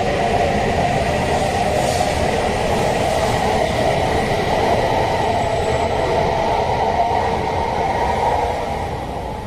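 E5-series Shinkansen train departing the station, its running noise loud and steady, fading about eight and a half seconds in as it draws away.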